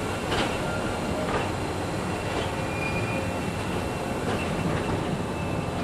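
Tramway du Mont Blanc electric metre-gauge train running slowly, heard from on board. There is a steady low rumble of wheels on rail with faint thin squeal tones and a soft knock about once a second.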